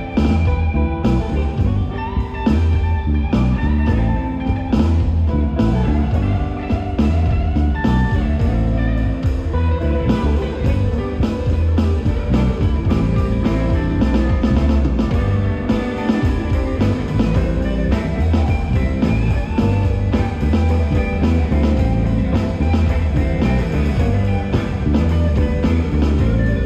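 Live rock/blues band playing an instrumental stretch, with guitar taking the lead over bass guitar and drum kit in a steady beat.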